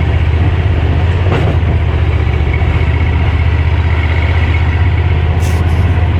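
A 30-horsepower boat motor running steadily at an even, low pitch.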